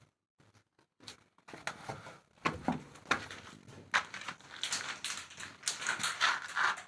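Irregular clicks, knocks and scraping of hand work on stainless steel pipe fittings, growing busier from about a second in.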